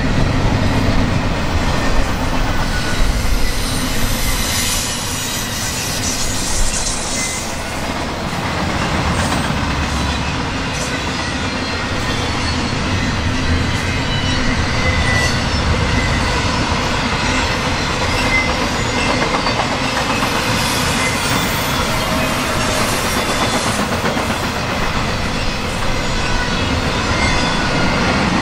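Double-stack container train's well cars rolling past: a steady rumble and clatter of steel wheels on the rails, with faint high wheel squeal at times.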